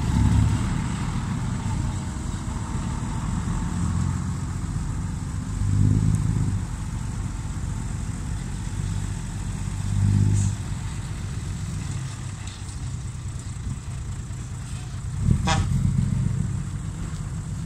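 Six-wheel dump truck's diesel engine running, with the revs rising and falling in several swells. A brief sharp sound comes near the end.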